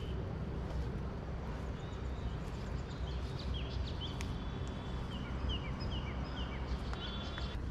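Small birds chirping in a quick run of short falling notes over a steady low rumble.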